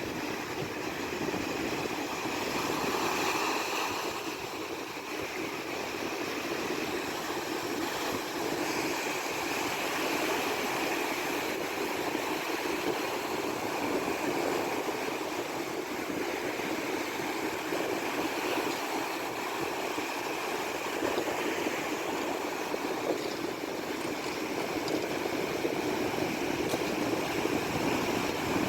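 Steady rush of waves and water washing around a sailboat in heavy wind, with no distinct impacts.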